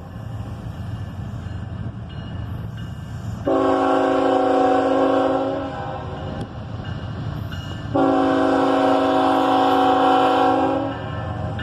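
Diesel freight locomotive's multi-chime air horn sounding two long blasts a few seconds apart, over the steady low rumble of the passing train.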